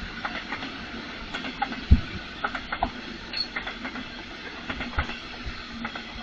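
Train passing on the railway line: irregular clicks and knocks of wheels over rail joints, with a low thump about two seconds in, over a steady running noise.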